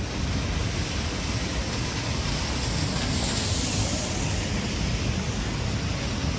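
Rain and wind on a storm-soaked city street, a steady hiss over a low rumble of wind buffeting the microphone; the hiss swells about three seconds in and eases off.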